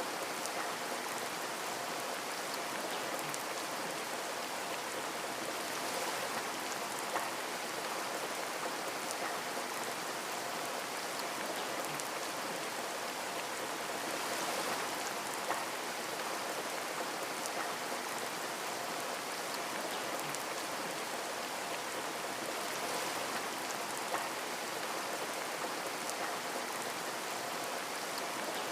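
Steady rain falling on a window, an even hiss of many drops with scattered louder individual drop ticks.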